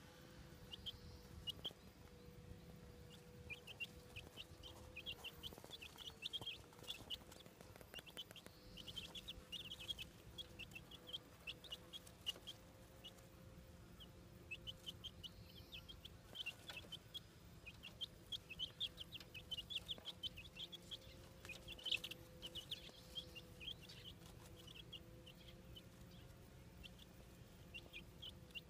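Young chickens peeping in a mobile coop: clusters of quick, high chirps that come and go throughout, over a faint steady hum.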